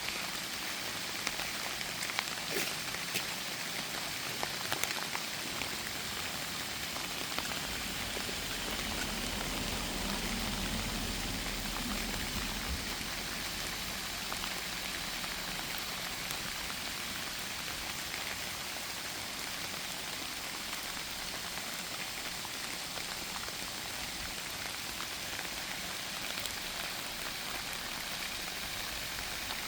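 Steady light rain falling, with scattered sharp drop ticks, most of them in the first few seconds. A soft low rumble swells about nine seconds in and fades by about thirteen seconds.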